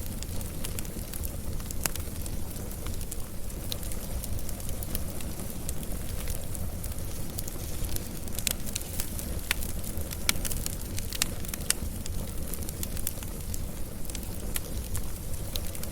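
Wood fire burning, crackling with scattered sharp pops over a steady low rumble; the pops come thicker around the middle.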